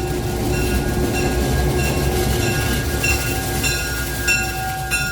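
Heritage passenger train coach rolling along the track: a steady low rumble from the wheels and running gear. Short high squeaks or clicks come at an even beat about every half second, over a faint steady whine.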